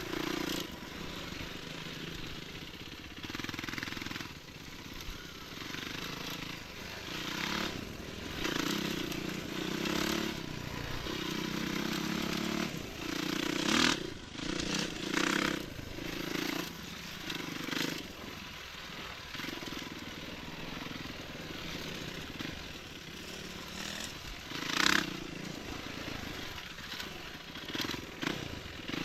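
Enduro dirt bike engine running while riding a desert track, its revs rising and falling. Several sharp clattering knocks cut through it, the loudest about halfway through and again near the end.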